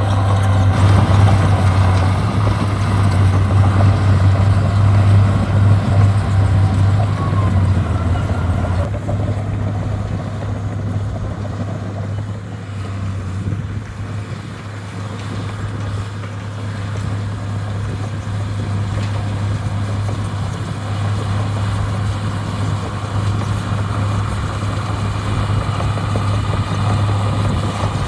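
Diesel engine of heavy landfill machinery running with a steady low hum. It eases off about a third of the way in and builds up again toward the end.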